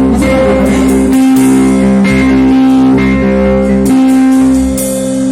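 Live worship band playing an instrumental introduction, led by guitar, with a steady beat.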